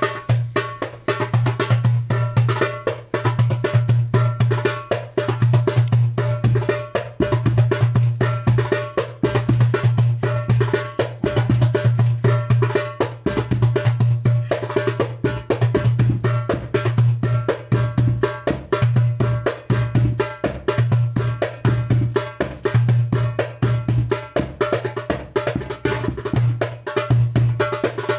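A 9-inch darbuka with a Remo mylar head played solo in a fast rhythm: deep ringing bass strokes mixed with rapid, sharp rim strokes and rolls.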